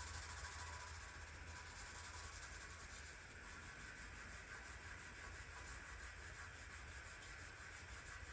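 Faint, steady abrasive rubbing.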